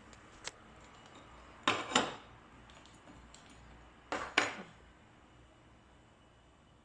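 Metal gas-stove burner caps being set down, clinking: two pairs of sharp knocks a couple of seconds apart, each with a short metallic ring.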